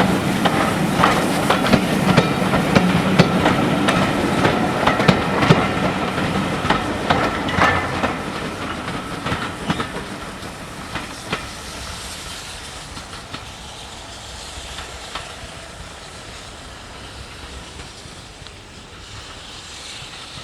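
Heritage railway train passing, its wheels clicking rapidly over the rail joints, with a faint hiss; the sound dies away gradually over the second half as the train moves off.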